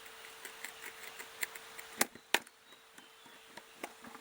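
Scissor blade being worked into a plastic flower pot to pierce a hole: a run of small scraping clicks, with two sharper cracks about two seconds in.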